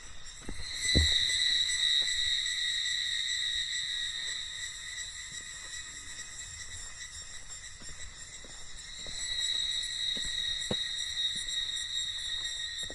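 Cicadas droning in a steady high buzz that swells about a second in, eases, and swells again around nine seconds, with faint scattered knocks underneath.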